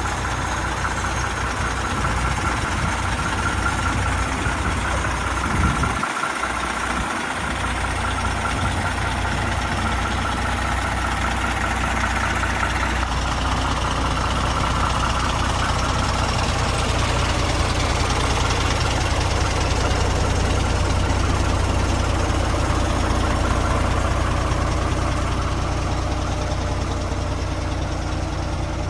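ERF ECT 420 6x2 tractor unit's diesel engine idling steadily. The low rumble briefly drops out about six seconds in.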